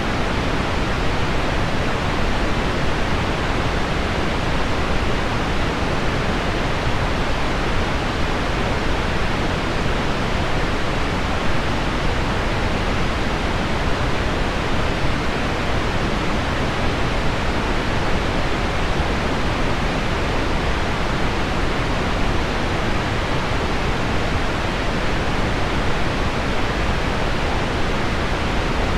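Synthetic pink noise blended with the sound of heavy rain on window glass: a steady, even rushing hiss, weighted toward the low end, that does not change.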